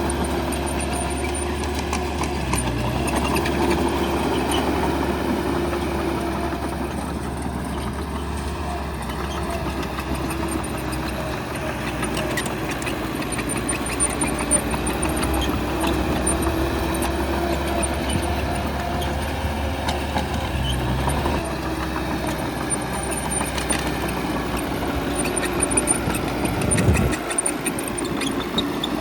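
Heavy diesel engine of a bulldozer running steadily, its pitch rising and falling slightly as it works, with scattered short clanks.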